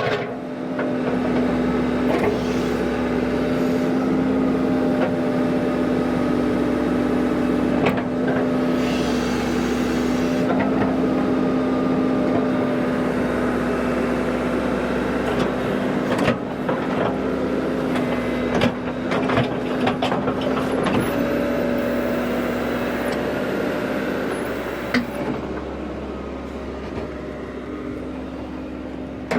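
Heavy earth-moving machine's engine running steadily, with scattered clanks and knocks from the work, fading down somewhat near the end.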